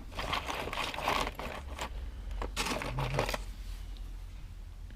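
Small metal jewelry pieces clinking and rustling as they are handled and sorted, busiest for the first three seconds or so and then quieter, over a steady low hum.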